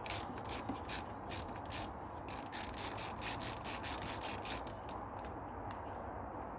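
Ratchet wrench with an oil filter cup socket worked back and forth in quick, even strokes to unscrew the oil filter housing cap on a Mercedes M112 V6. The rasping strokes stop about five seconds in.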